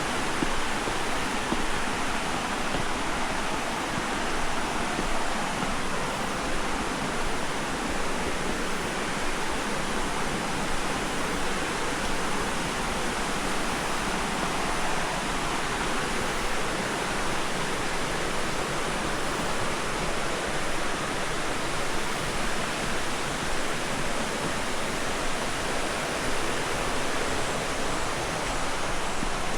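Steady rush of water from a tall waterfall, an even, unbroken wash of noise.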